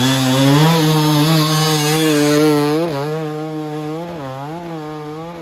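Dirt bike engine held at high revs, a steady buzzing note with short dips and wobbles in pitch, more frequent in the second half, as the throttle is worked.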